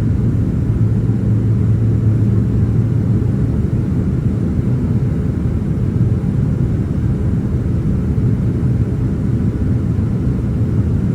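Steady low rumble of engine and airflow noise inside the cabin of a Boeing 767-300ER airliner during its approach to land.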